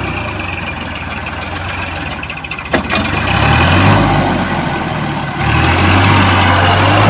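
Heavy diesel engine running. It gets louder about three and a half seconds in and again a little past five seconds, as if coming under load, with one sharp click near the middle.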